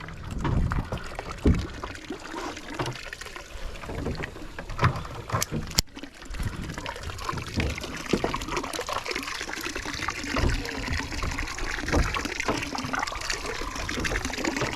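Water trickling and splashing around a small fishing boat, with a few knocks.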